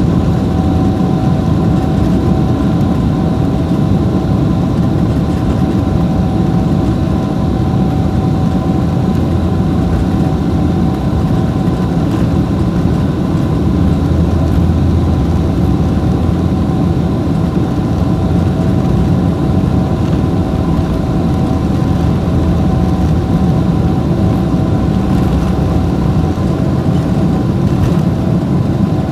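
Boeing 777-300ER's GE90-115B engines during takeoff, heard inside the cabin from a window seat: a loud, steady, deep engine and airflow noise with a few faint steady tones above it.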